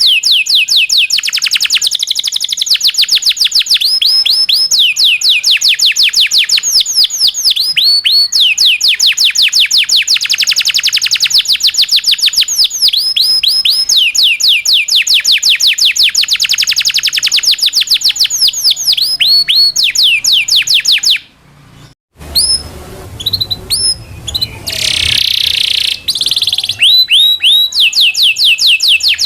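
Domestic canary singing in full voice: long rolls of rapid, repeated falling high notes held for several seconds at a time, broken by a short pause a little after twenty seconds and a harsher, noisier phrase a few seconds later before the rolls resume.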